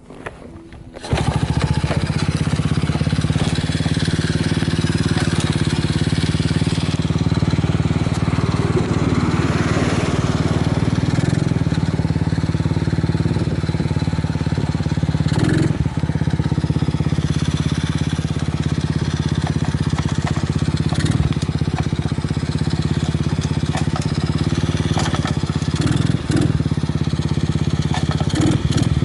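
Honda Solo AC17's small single-cylinder engine, breathing through an aftermarket Advance Pro full exhaust, catches about a second in and then runs steadily at idle. The engine runs evenly, which the seller takes as a sign of no abnormal noises.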